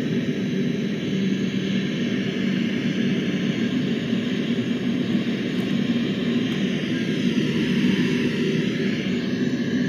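Steady drone of an aircraft engine, with a constant low hum. A faint pitch glide creeps in near the end.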